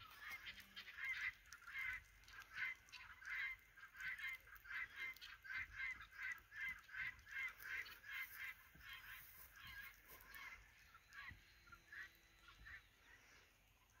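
Faint, distant honking bird calls, repeated about two to three times a second and fading out after about ten seconds.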